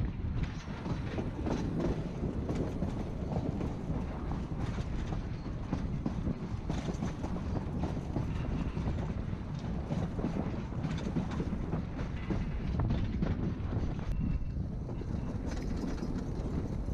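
Narrow-gauge passenger train heard from onboard: the coach rumbling steadily as its wheels click over the rail joints.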